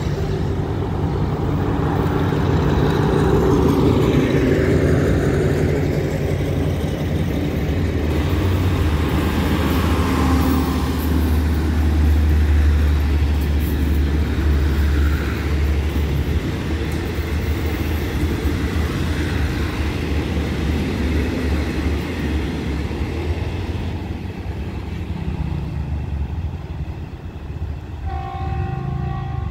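A diesel-hauled passenger train passing close by: the locomotive's diesel engine runs past with a deep rumble, then the carriages roll by on the rails. The sound eases off near the end as the train moves away.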